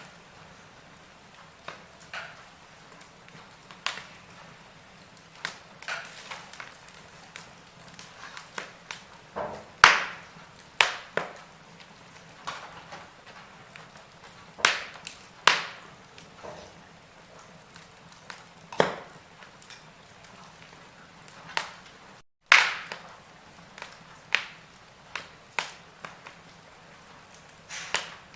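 Wood fire crackling in a fireplace: irregular sharp pops and snaps of varying loudness over a faint steady hiss.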